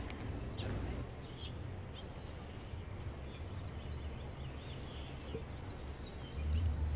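Outdoor ambience on a live field microphone: faint bird chirps over a steady low rumble that swells near the end.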